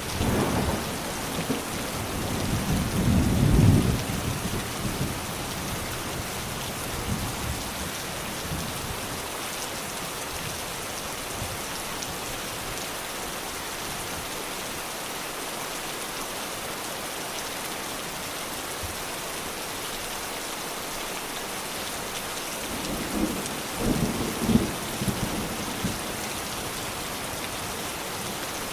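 Steady heavy rain falling, with two low rolls of thunder: one right at the start that builds to a peak a few seconds in, and another shorter one near the end.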